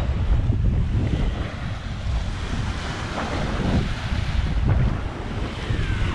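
Strong wind buffeting the microphone over rough surf breaking on the beach, a steady rushing wash under uneven low rumbling gusts.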